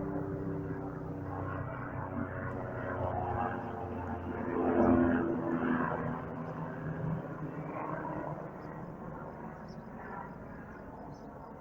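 Helicopter flying over, its engine and rotor drone growing to its loudest about five seconds in and then fading as it moves away.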